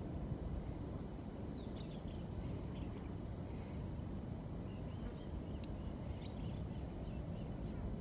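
Small birds chirping faintly, a scatter of short high calls through the middle of the clip, over a steady low rumble.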